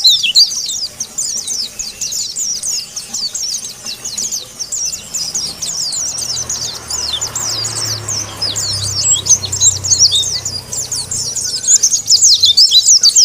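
White-eye (Zosterops, 'pleci') singing a rapid, continuous chatter of high, quick down-slurred chirps. It is loudest at the start and again near the end, and softer through the middle.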